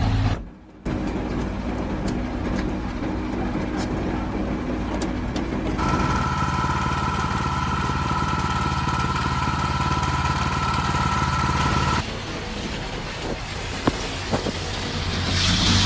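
Motor vehicle engines running, in several short cut-together clips. In the middle, a steady two-note tone sounds for about six seconds, then cuts off suddenly.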